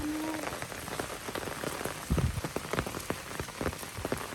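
Steady rain falling during a tropical storm, with many individual drops hitting close by among the general hiss.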